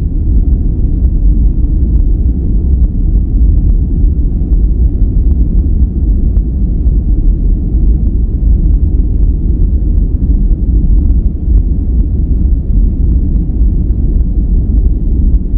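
A steady, deep noise track sold as white noise, weighted heavily to the bass like brown noise, with little treble. It runs evenly, with no changes or separate events.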